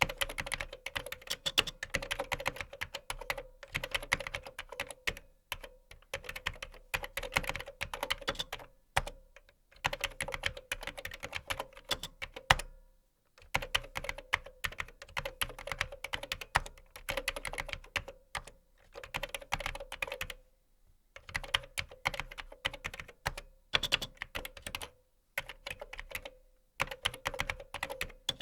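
Fast typing on a computer keyboard: runs of rapid keystrokes a second or two long, broken by short pauses, with one louder key strike near the middle.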